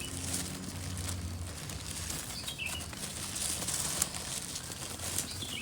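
Domestic pigeons fluttering and moving about while being fed, with a few faint short chirps and soft clicks over a steady low hum.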